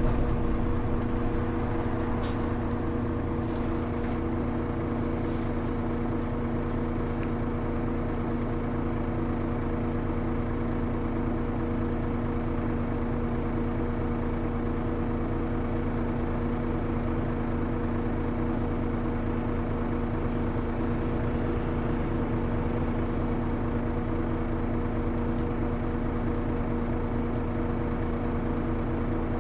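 Hino Rainbow HR (KL-HR1JNEE) bus diesel engine idling steadily, heard from inside the cabin as a constant hum of several low tones that does not rise or fall. It eases slightly in the first second.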